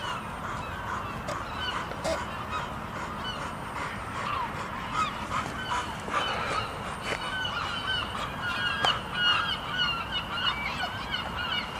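A flock of geese honking, many overlapping calls that grow denser and louder about halfway through, over a steady low rumble.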